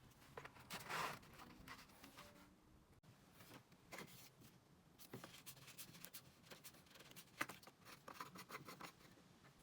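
Faint handling sounds: scattered small clicks and taps, with a brief scraping rush about a second in.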